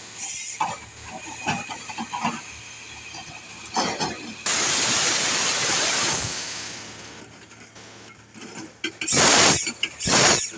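Crawler drilling machine: a few scattered knocks, then a loud hiss of compressed air lasting about two and a half seconds, and two shorter loud hisses near the end.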